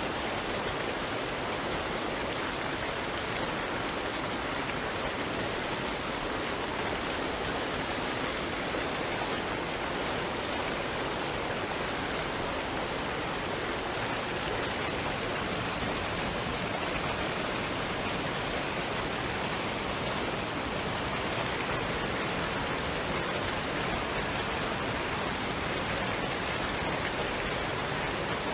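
Waterfall and stream water rushing in a steady, even hiss with no breaks.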